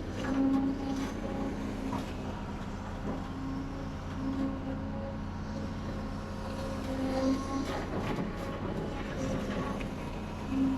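Diesel engine of heavy construction machinery running steadily, with a few brief knocks and rattles about eight seconds in.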